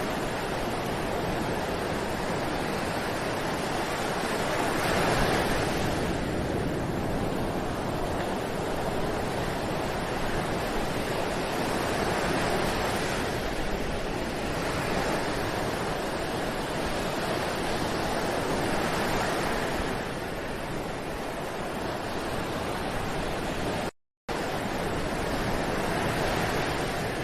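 Ocean surf washing onto a beach, a continuous rush of breaking waves that swells and ebbs every several seconds. The sound cuts out for a split second near the end.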